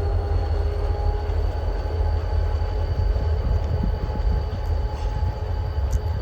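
Diesel locomotives running light, without cars: a steady, deep engine rumble with a faint steady hum over it.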